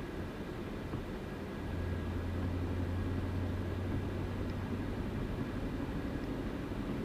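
Chevrolet Camaro driving on the road: steady engine drone and road noise. The engine's low hum grows louder about two seconds in, then eases near the end.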